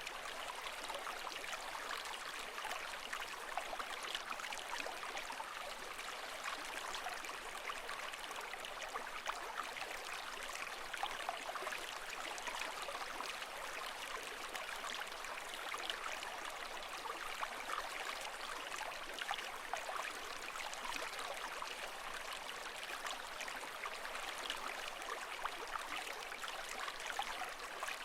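Water running steadily, with a constant trickling and bubbling and no swells rising and falling.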